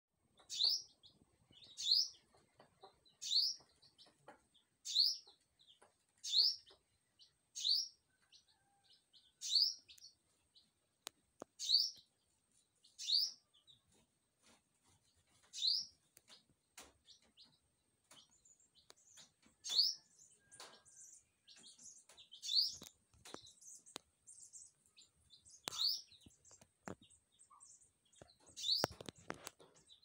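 A small bird calling with a short, sharp rising chirp, repeated steadily about every second and a half, then at more irregular intervals from about halfway through.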